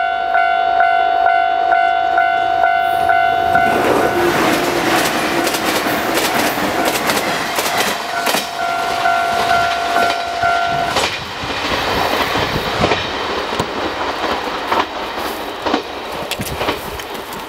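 Railway level-crossing warning bell ringing in a steady pulsing rhythm while a train passes over the crossing, its wheels clacking over the rail joints. The bell stops about two-thirds of the way through, and the train's running noise carries on and slowly fades.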